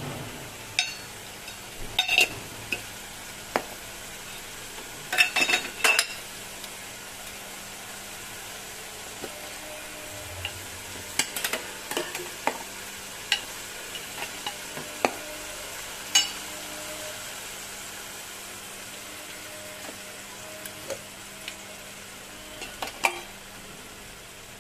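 Ginger-garlic paste and whole spices frying in oil and a little hot water in a pan: a steady sizzle, with scattered clinks and scrapes of a cooking utensil, bunched about five and eleven seconds in.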